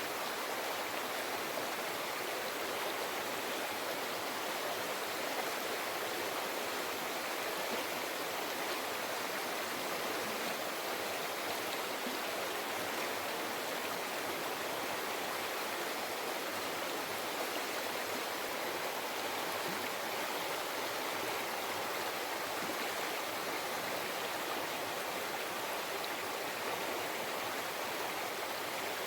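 River flowing: a steady, even babbling rush of water.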